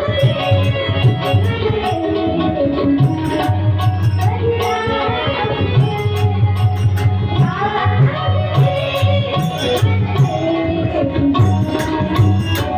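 Abhang bhajan music without words: tabla playing a steady beat, with jingling hand-percussion strikes and a melody line over it.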